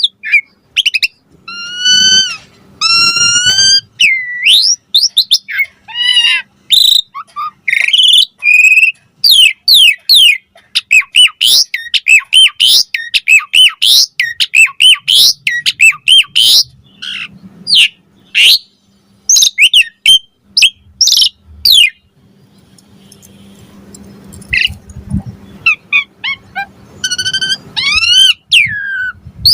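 Asian pied starling singing a long, varied song of loud whistles, rising and falling glides and quick chattering notes. The song pauses for a few seconds about three-quarters of the way through, then resumes.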